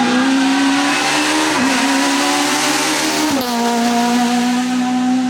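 Rally car engine at high revs under load, its revs dipping briefly twice before climbing again.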